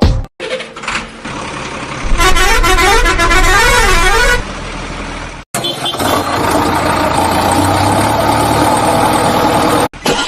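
Vehicle sound effects spliced together with abrupt cuts. About two seconds in, a horn warbles up and down for about two seconds; after a short break a steady vehicle drone runs until it cuts off near the end.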